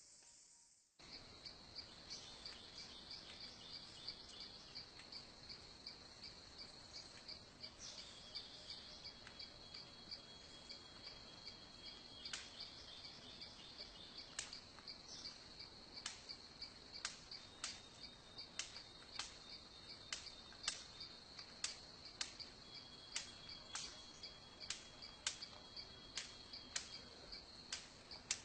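Faint high-pitched insect chirring, cricket-like, starts abruptly about a second in and pulses steadily throughout. Over it a bird gives short sharp calls, at first every second or two, then more often.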